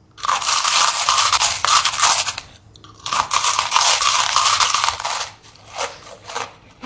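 Crunching of crisp food being bitten and chewed, in two long stretches of a couple of seconds each, then a few short crunches near the end.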